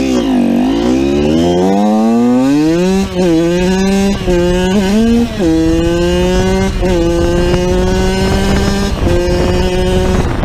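Yamaha YZ80's single-cylinder two-stroke engine, fitted with an aftermarket top end, revving up under load while riding. It then shifts up through the gears, the pitch dipping briefly at each change several times.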